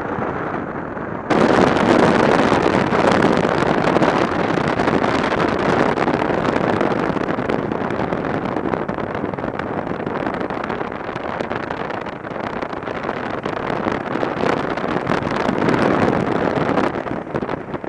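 Wind rushing over the microphone of a camera on a moving motorcycle: a steady, loud roar of air with no clear engine note. It jumps suddenly louder about a second in.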